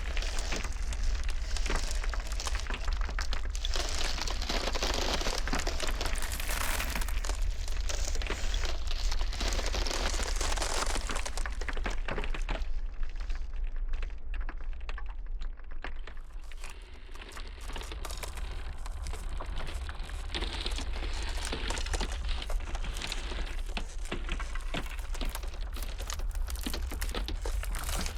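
Ice cracking and crackling in a dense run of small pops and snaps over a steady low rumble of blizzard wind. Around the middle the crackle thins and softens for a few seconds, then builds again.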